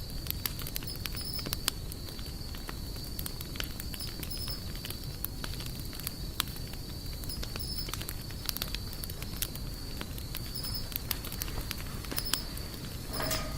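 Wood campfire crackling, with frequent sharp irregular pops and snaps over a steady low rumble of the flames. A thin steady high tone runs underneath.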